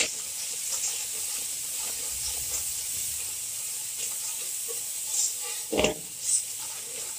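Onion-tomato masala with freshly added whole cumin and ground spices sizzling steadily in hot oil while a spoon stirs it. The spoon knocks against the pot twice near the end.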